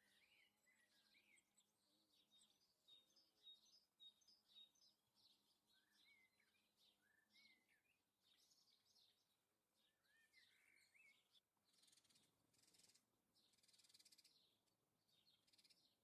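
Faint chirps and short twittering calls of small garden birds, scattered through, with a brief hissing rustle late on.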